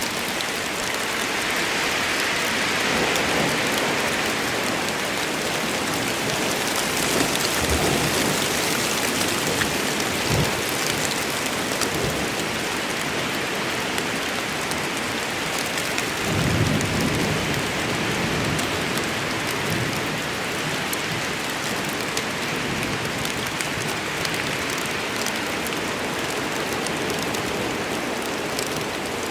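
Steady heavy rain falling on the forest, with low rolls of thunder rumbling under it several times, the strongest about halfway through.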